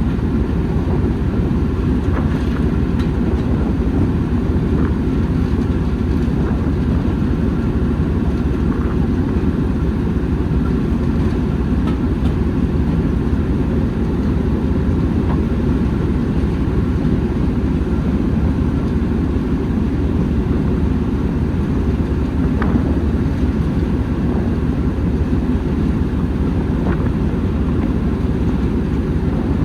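Train running along the track: a steady low rumble with a few faint clicks.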